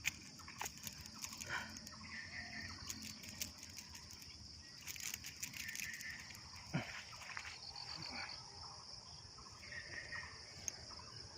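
Insects shrilling steadily in one high continuous tone, with scattered faint clicks and ticks over it.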